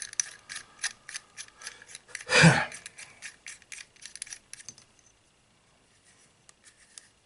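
Small parts of a Weaver J2.5 rifle scope's ocular lens assembly being handled and fitted together by hand: light clicks, taps and rubs, with one louder handling noise about two and a half seconds in. The clicks die away after about five seconds.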